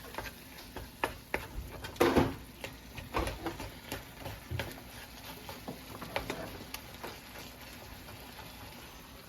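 Kitchen clatter: scattered light clicks and knocks, with a louder knock about two seconds in, thinning out after about seven seconds.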